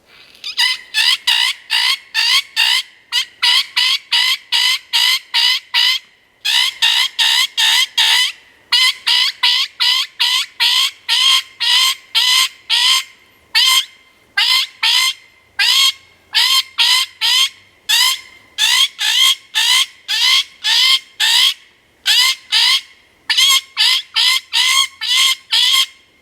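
MFK Bunny Bird predator call blown as bird distress: fast, high-pitched squeals, about three a second, each sliding up in pitch, in runs broken by short pauses. A throat growl blown through the call gives the notes their vibrating rasp.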